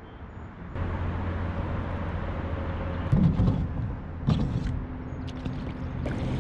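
A kayak's motor running with a steady low hum, with two short knocks about a second apart near the middle.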